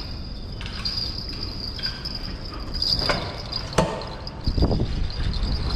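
Steady high-pitched chirring held at one pitch, with a sharp click about four seconds in and low wind rumble on the microphone toward the end.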